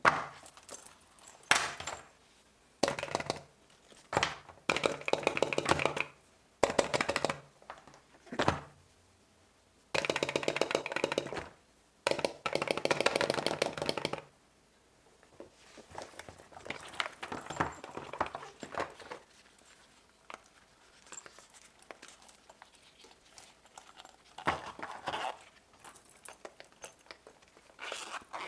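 Silicone pop-it fidget toy being pressed, its bubbles popping in short runs of many quick pops, several runs in a row with pauses between, growing lighter and more scattered in the second half.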